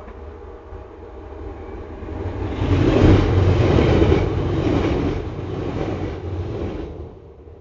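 A train passing close by: its rumble builds over a couple of seconds, stays loud for about four seconds, then drops away sharply near the end.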